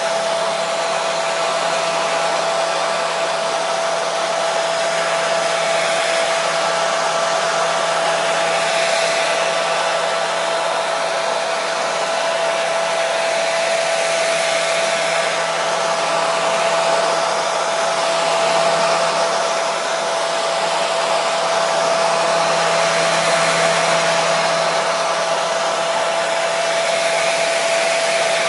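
Hair dryer running steadily: an even rush of blown air with a constant motor whine, used as continuous white noise to settle babies.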